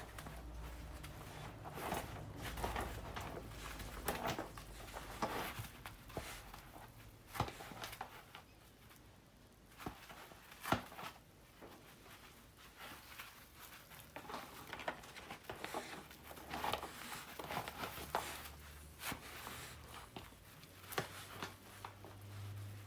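A dog playing alone with a ball: irregular light knocks and scuffs of paws and ball, scattered unevenly, over a faint low hum.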